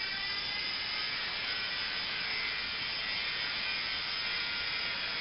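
Small electric motor of a toy remote-control helicopter whining as its rotors spin, the pitch rising slightly at first and then holding steady.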